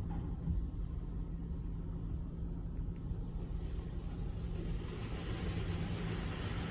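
Steady low rumble heard from inside a car's cabin as it is pulled through a tunnel car wash.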